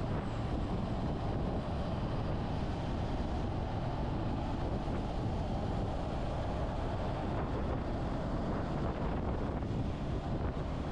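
Motorcycle on the move: a steady rush of wind over the microphone mixed with engine and road noise, unchanging throughout.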